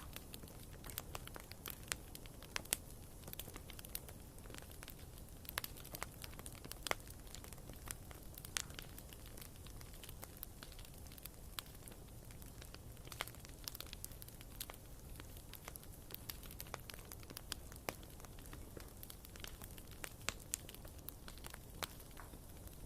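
Wood fire burning in a fireplace: logs crackling and popping with irregular sharp snaps over a low hiss.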